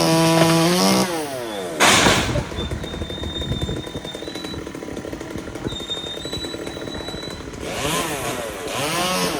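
Chainsaw running at full throttle, then falling to idle about a second in. A short, loud burst of noise follows about two seconds in. The saw idles and then revs up again near the end.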